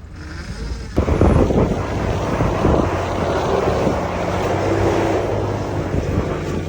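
A 4x4's engine runs under a loud rushing noise that starts suddenly about a second in, like wind buffeting the microphone or snow rushing past as the vehicle drives through deep snow.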